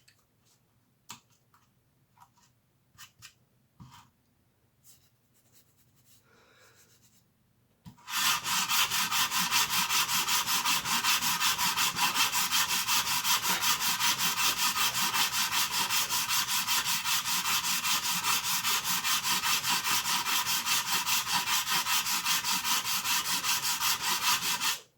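Hand file rasping across a plastic blaster shell in quick, even back-and-forth strokes, taking down thick layered plastic. A few light clicks and taps come first, and the filing starts about eight seconds in and stops just before the end.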